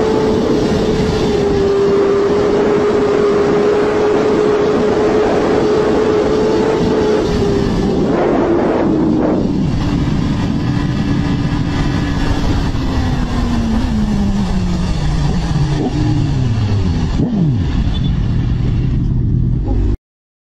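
Racing motorcycle engines at high revs, holding a steady high pitch for several seconds, with machines passing around eight to ten seconds in. The pitch then falls steadily as the engines slow, and the sound cuts off abruptly just before the end.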